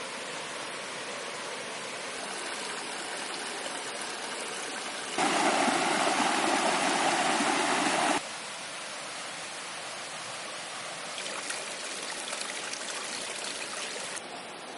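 Steady rushing of running water, like a stream. About five seconds in, a louder, fuller rush cuts in abruptly for about three seconds and then drops back.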